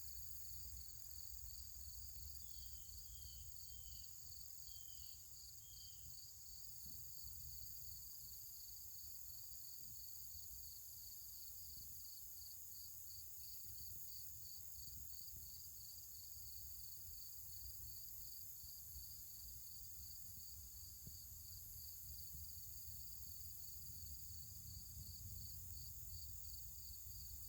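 Insects chirping outdoors: a steady, even chirp about three times a second over a constant high-pitched insect hiss, with a few brief falling chirps a few seconds in and a low rumble underneath.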